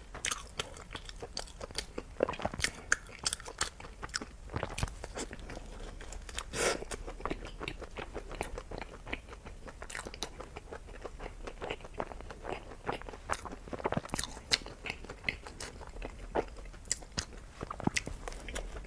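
Close-miked chewing and biting of food, with many sharp, irregular crunches and wet mouth clicks.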